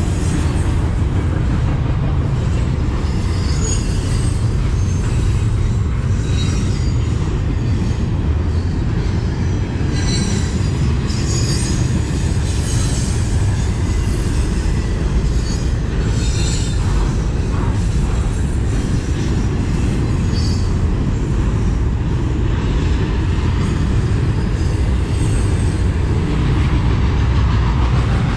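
Double-stack intermodal container train rolling past on well cars: a steady heavy rumble of wheels on the rails, with short high-pitched wheel squeals coming and going every few seconds.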